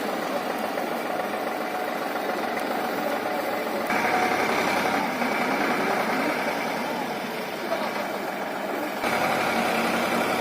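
Tractor engine running steadily, with the sound shifting abruptly about four seconds in and again about nine seconds in.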